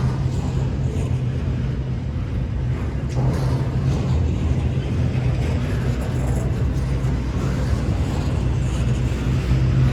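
Norfolk Southern intermodal freight train rolling past, a steady low rumble of wheels on rail that does not let up.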